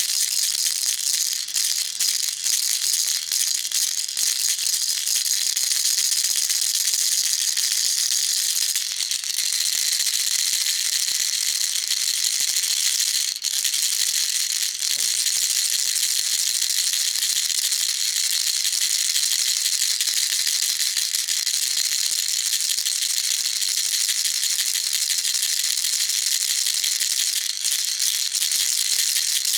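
Baby rattle shaken steadily, giving a continuous, dense, high-pitched rattle with no pauses; its texture shifts slightly about nine seconds in.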